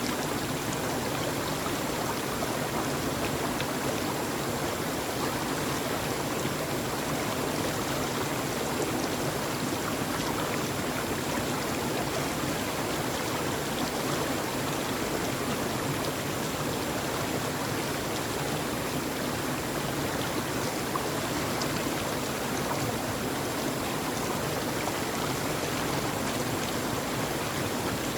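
Steady, even rush of flowing water, like a stream, with no breaks or changes.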